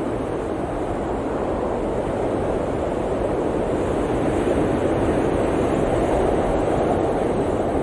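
Blizzard wind blowing steadily, a low, continuous rushing that swells slightly about halfway through.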